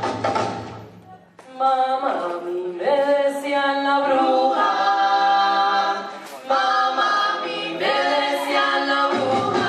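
The band's music dies away, then a group of voices sings unaccompanied, holding long chords in several parts. The instruments come back in just before the end.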